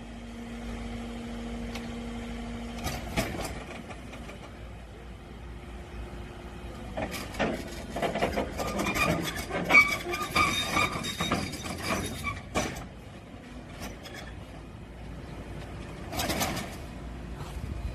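Hydraulic excavator at work: a steady engine hum, then a long stretch of scraping and clattering about seven seconds in, and another short burst of it near the end.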